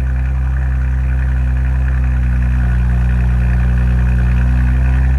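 2019 Audi RS5's 2.9-litre twin-turbo V6 idling steadily at cold-start high idle through a custom stainless exhaust with its valves open.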